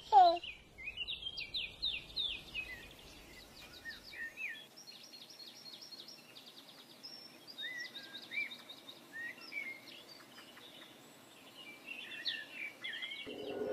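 Songbirds chirping and singing in quick, repeated short phrases, fairly quiet. A baby's giggle trails off right at the start, and a rising hiss comes in near the end.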